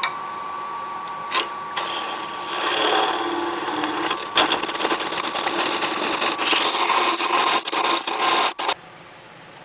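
Wood lathe motor spinning up to a steady whine, then a turning tool cutting into the spinning wood inside a hollowed vase with a dense scraping hiss and scattered ticks. The cutting and the motor stop sharply near the end.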